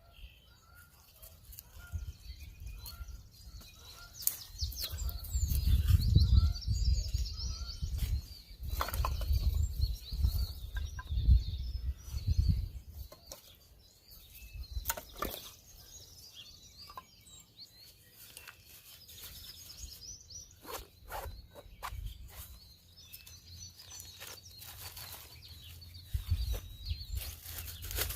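Small birds chirping and twittering throughout. A loud low rumble comes in about five seconds in and dies away around thirteen seconds, with a few sharp knocks and clicks scattered through.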